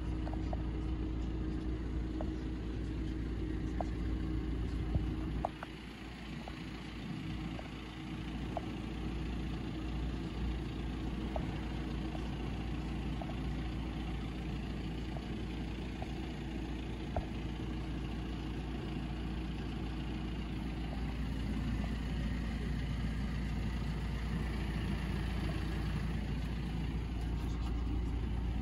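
Audi A4 Allroad's engine idling steadily, with a low rumble that drops for a few seconds about five seconds in.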